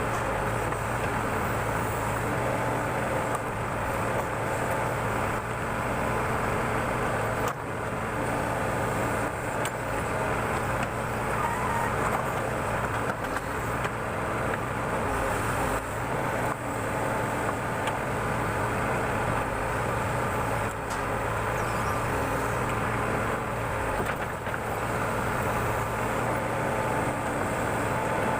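Backhoe loader's diesel engine running steadily, a continuous low hum with no breaks.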